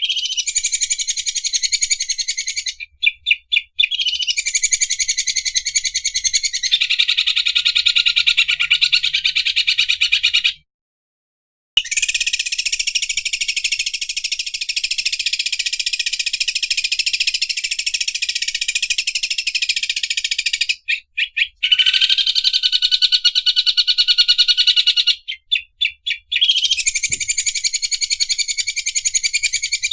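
Greater green leafbird (cucak ijo) singing long, fast rattling trills of rapid high clicks, the 'mesin obras' song type named for its likeness to an overlock sewing machine. The song is broken by about a second of total silence a little before the middle.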